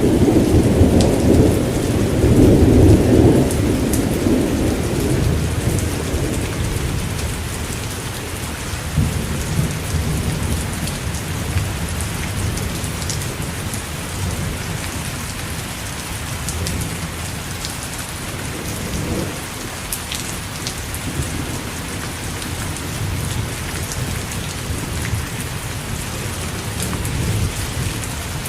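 Steady rain falling, with the tick of individual drops, and a deep roll of thunder that is loudest over the first few seconds and dies away by about five seconds in. Fainter low rumbles of thunder come and go after that.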